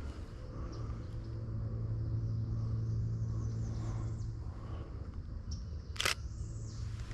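Handling noise on a handheld camera: a steady low hum with faint ticks, and one sharp click about six seconds in.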